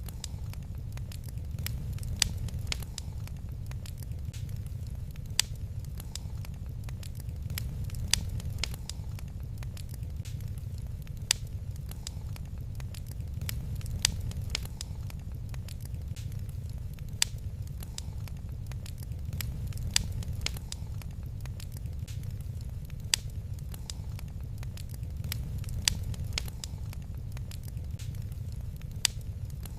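Wood fire crackling in a fireplace: a steady low rumble with many small snaps, and a louder pop about every three seconds.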